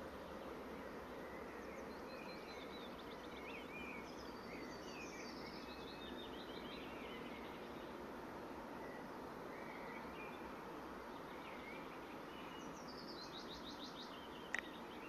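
Songbirds singing over a steady outdoor hiss: warbling phrases in the first half, then a quick series of notes falling in pitch near the end. A single sharp click sounds just before the end.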